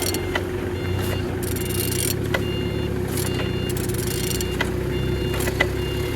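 Steady low mechanical hum with a short high beep repeating about once a second, and a few sharp clicks.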